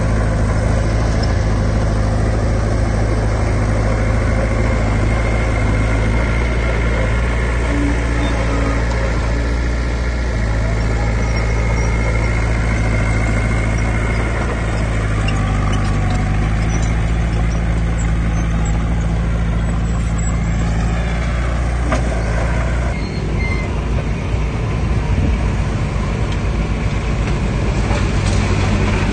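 Diesel engines of heavy earthmoving machinery running steadily. About three-quarters of the way through, the engine note drops and turns rougher, with a fast pulsing rattle.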